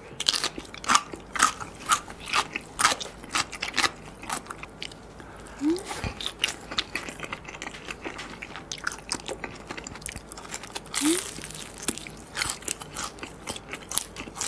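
Close-miked chewing of a mouthful of food, with many small crunchy bites and wet mouth clicks. Two brief rising hums come about halfway through and again near 11 seconds.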